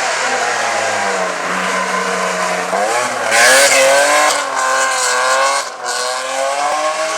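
Rally car engine: the revs fall and hold low, then it accelerates hard about three seconds in, loudest just after, with the revs rising and dipping through gear changes.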